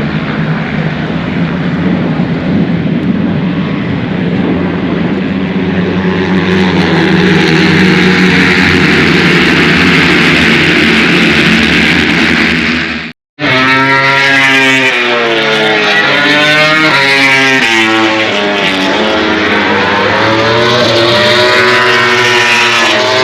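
Motorcycle engine running steadily under wind noise while riding. After a sudden cut about thirteen seconds in, a high-revving motorcycle engine climbs and drops in pitch again and again, as if changing gears.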